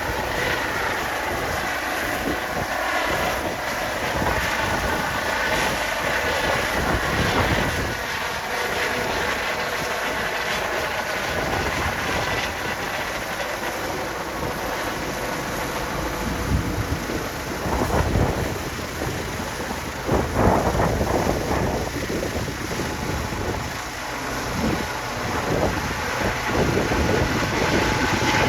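Eurocopter EC135 helicopter's twin turbine engines and main rotor running, with a steady turbine whine. Gusts of wind buffet the microphone about two-thirds through.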